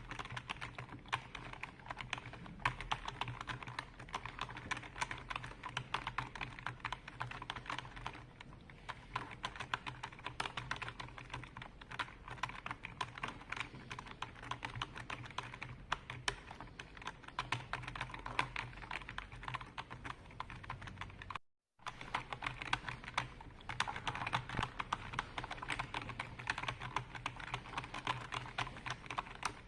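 Continuous fast typing on a computer keyboard: a dense, irregular stream of key clicks, over a low steady hum. The sound drops out completely for a split second about two-thirds of the way through.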